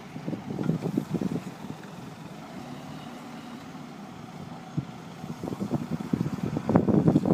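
A heavy vehicle's engine running, with uneven louder surges about a second in and again near the end.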